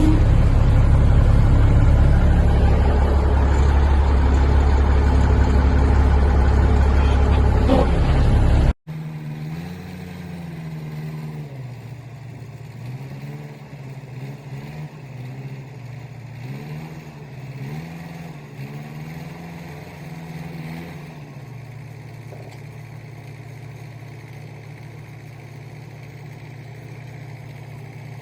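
Heavy truck engine running loudly; after a sudden cut about nine seconds in, an engine revs up and down several times, then settles into a steady idle.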